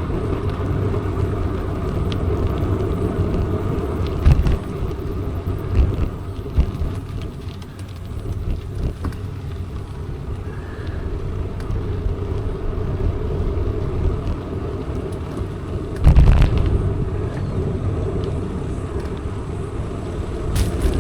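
Mountain bike being ridden: a steady low rumble of tyres rolling over the surface, with a few sharp knocks from bumps, the loudest about sixteen seconds in.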